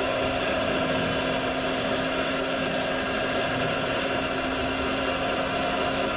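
Steady electric whir and hum of a radio-controlled model machine's motors running, even and unchanging throughout.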